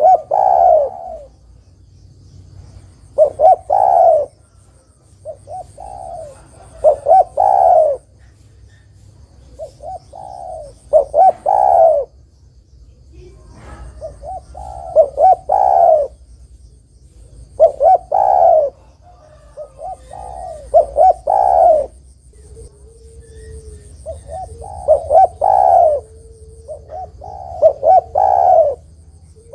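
Spotted dove (tekukur) cooing: a phrase of two or three short notes ending in a longer coo, repeated about every three to four seconds. A faint high-pitched trill comes and goes behind it.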